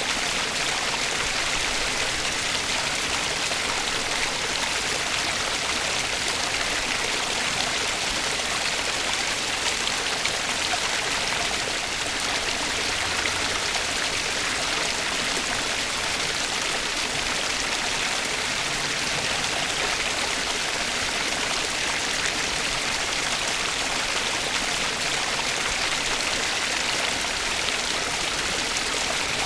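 Flowing water: a steady, even rush of a stream, without pauses or changes.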